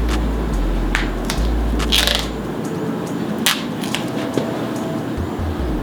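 Crinkling and rustling of handlebar tape and its finishing strip being handled and wrapped, with several sharp clicks and a brief louder scrape about two seconds in.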